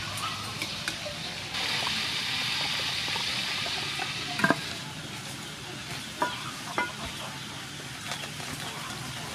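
Pork frying in oil in an aluminium pot, a steady sizzle that grows louder from about a second and a half in until about five seconds in, with a few short clinks of a ladle and tongs against the pot.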